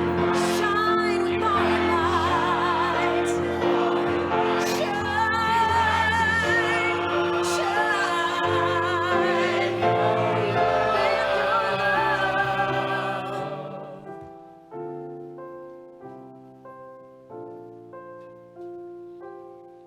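Choir singing with piano accompaniment, several voices with vibrato. About fourteen seconds in the voices stop and the piano plays alone, struck notes in a steady rhythm and somewhat quieter.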